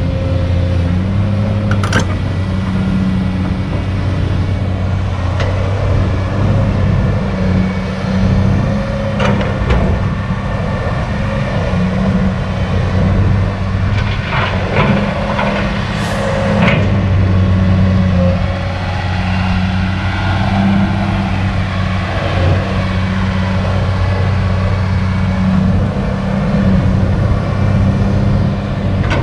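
Kobelco SK200 excavator's diesel engine running steadily, its pitch shifting up and down as it works, with occasional knocks and clanks, several of them about halfway through.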